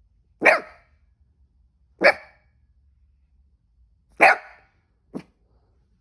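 A cavoodle with the hiccups barking: three loud, short single barks about two seconds apart, then a shorter, quieter one near the end.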